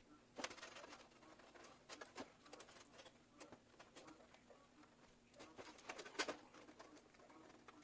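Faint handling noise: scattered clicks and rustles of PC cables and parts being handled, loudest about half a second in and again around six seconds in, over a low steady hum.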